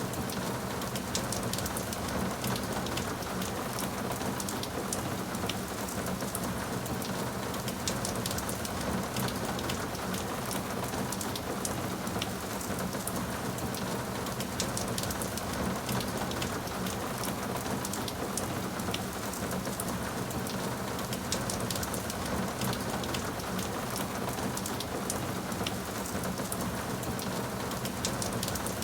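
Steady rain falling on a surface, an even hiss dotted with many sharp drop impacts.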